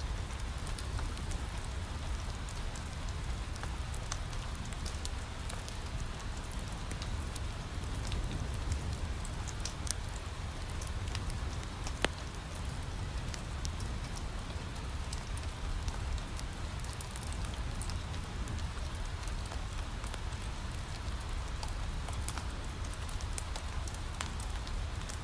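Steady rain falling against a window, mixed with a wood fire crackling in a fireplace, with scattered sharp pops over a low, even rumble.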